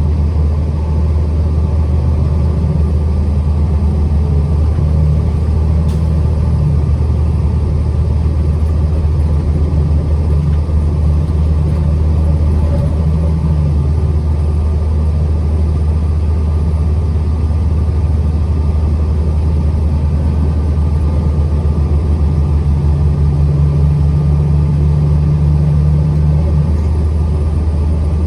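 Truck being driven: a steady low engine drone and road rumble.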